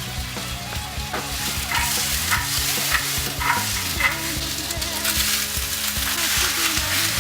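Food sizzling as it fries in a pan, over background music with a steady beat.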